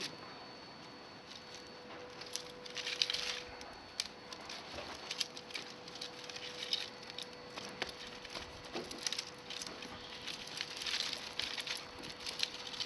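Small fire of climbing-rose twigs crackling, with irregular sharp pops and ticks and brief flurries of hissing crackle.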